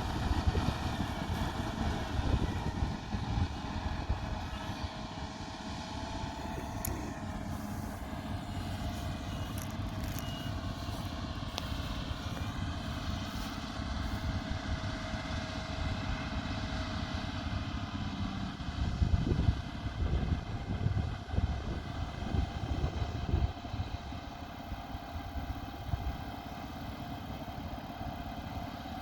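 Combine harvester running steadily at work: a constant machine drone with a steady whine over a dense low rumble, the rumble growing louder for a few seconds past the middle.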